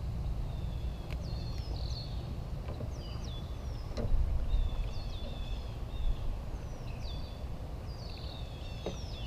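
Small birds chirping over and over in short, falling high notes, over a steady low rumble, with a few light knocks.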